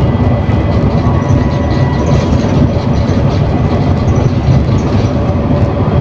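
An ADL Enviro400 City double-decker bus with a Voith automatic gearbox, heard from inside while it drives along: a steady, loud engine and road rumble with a faint steady whine above it.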